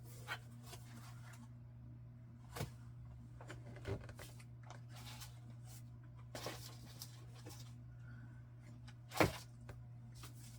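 Paper and card being handled and shuffled: scattered short rustles and light knocks, the loudest about nine seconds in, over a steady low hum.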